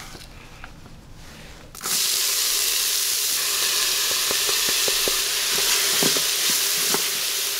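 Chopped onion, garlic and ginger dropped into hot oil in an Instant Pot's stainless steel inner pot on high sauté, sizzling loudly from about two seconds in. A wooden spoon stirring them gives a few light knocks against the pot.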